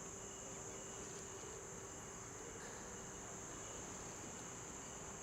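Faint, steady high-pitched whine that holds unchanged throughout, with a weak low hum beneath it.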